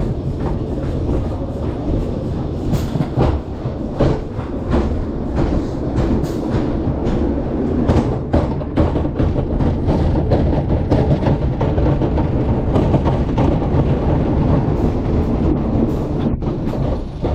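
Wooden roller coaster train running along its track: a continuous low rumble with rapid, irregular clacks of the wheels over the wooden track.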